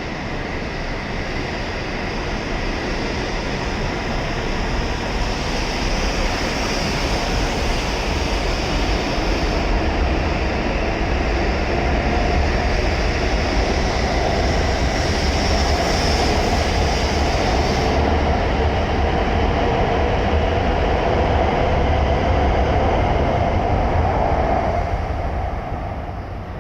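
E7 series Shinkansen train pulling out of the platform, its running noise building steadily as it moves off and gathers speed, then dropping away near the end.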